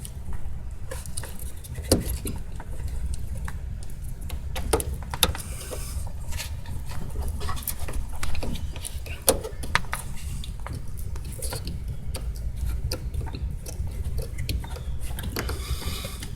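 Scattered clicks, taps and scrapes of hands working the plastic safety clips on a fuel line quick-connector, over a steady low hum.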